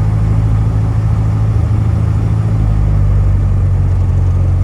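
Small piston airplane engine running steadily, heard from inside the cockpit as a loud, even low drone.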